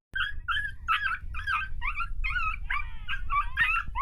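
Dog yelping and whimpering in a rapid run of short, high-pitched cries, about three a second.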